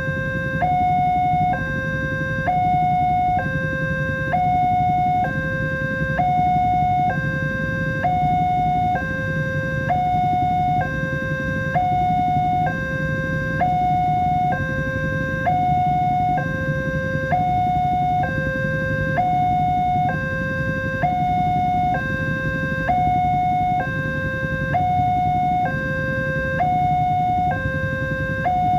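Electronic warning alarm of a railway level crossing, sounding two tones that alternate steadily, switching about once a second, over a low steady rumble.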